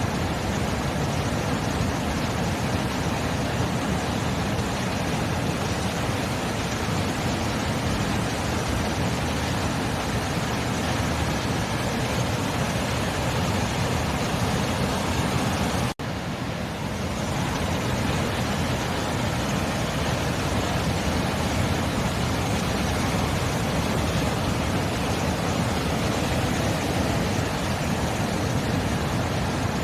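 Sea surf making a steady, even rush of noise, with a sudden brief dip about halfway through.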